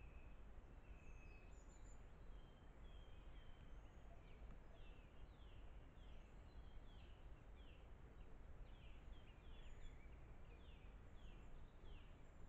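Faint woodland birdsong over a steady low hiss. A few short whistles come early, then from about four seconds in a quick series of descending notes repeats, roughly two a second, until near the end.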